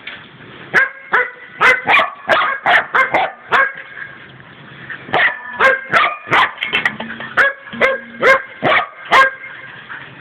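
Border collie barking in quick, repeated barks, in two flurries with a short break about four seconds in. Mixed in is the clatter of his food dish being thrown about, ringing briefly at the same pitches after each knock.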